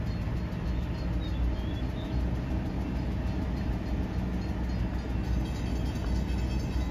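Diesel-electric locomotives of an approaching freight train rumbling steadily and low, not yet close.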